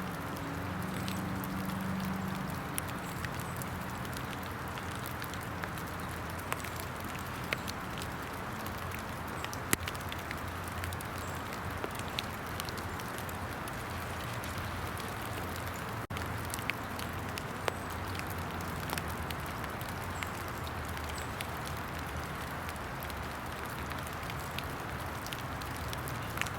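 Steady hiss of rain falling in the woods, with scattered single sharp ticks every second or two.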